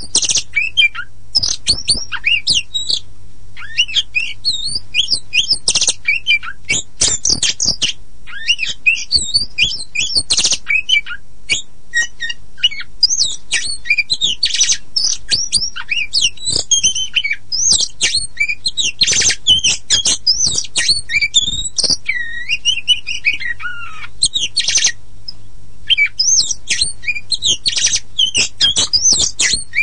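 Oriental magpie-robin (black-and-white kacer poci) singing continuously in a fast, varied run of gliding whistles, chirps and sharp clicking notes, with a brief pause near the end. A faint steady low hum lies underneath.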